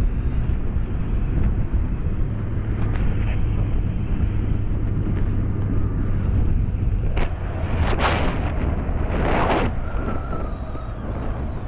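BMW K1200S inline-four engine running at steady speed under road and wind noise, heard through a microphone inside the rider's helmet. Two louder rushing swells come about two-thirds of the way through.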